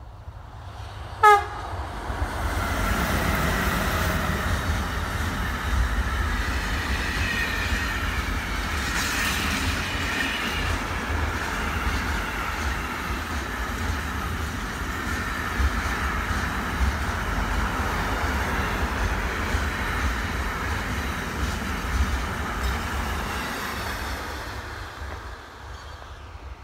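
A train sounds one short horn blast about a second in, then runs past for some twenty seconds, the noise fading away near the end.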